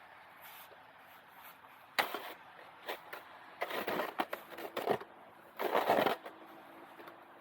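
Roof rake scraping and dragging snow off a roof in three rough strokes: a short one about two seconds in, a longer one around four seconds, and another near six seconds.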